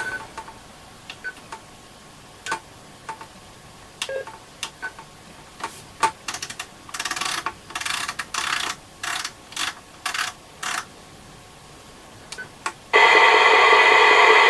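AOR AR-2002 scanner receiver being operated: short clicks and brief beeps as its keys are pressed, then a run of short bursts of static from its speaker around the middle. Loud, steady receiver hiss begins about 13 seconds in.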